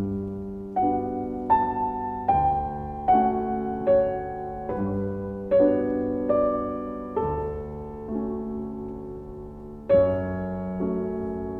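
Slow background piano music: single notes struck about one every second over held lower notes, each fading away, with a short pause before a louder note near the end.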